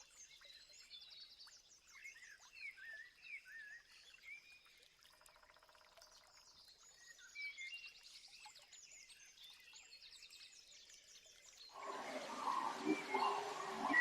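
Several wild birds calling and singing: short whistled chirps, slurred notes and quick trills, with a brief buzzy rattling call near the middle. About twelve seconds in the sound cuts abruptly to a louder scene with background hiss and lower calls.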